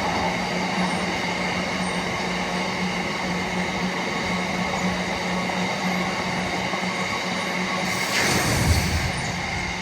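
Train running at a station platform, with a steady low hum and several steady higher tones. About eight seconds in, a loud noisy surge lasts roughly a second.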